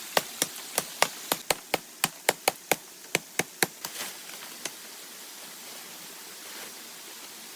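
A hand tool striking fast and evenly, about four sharp blows a second, stopping about four seconds in. Under it runs the steady hiss of insects.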